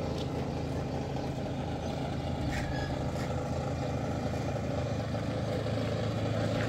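Engine running steadily, a low even drone, with a few faint clicks over it.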